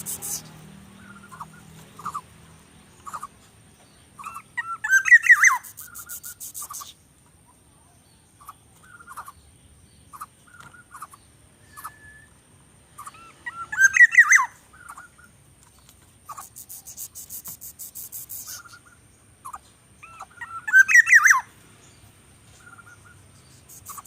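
Bird calls: scattered short chirps, with three louder bursts of rapid chattering calls about eight seconds apart.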